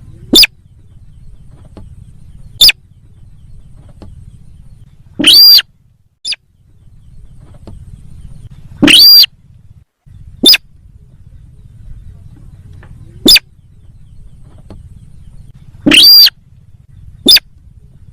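Recorded lure call of the sintar sawah, a rice-field bird: about eight loud calls a second or three apart, some short and sharp, some longer with a steep upward sweep. A faint low hum runs under the calls.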